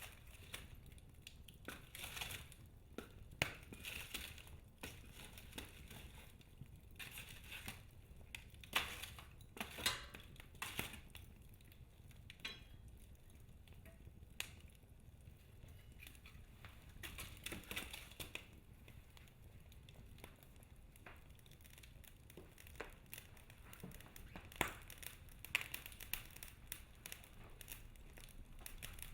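Wood fire burning in a fireplace, the logs crackling with irregular sharp pops and snaps over a low steady rumble of the flames.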